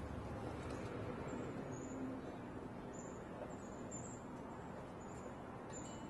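Several short, high, thin bird chirps scattered through, over a steady background hiss.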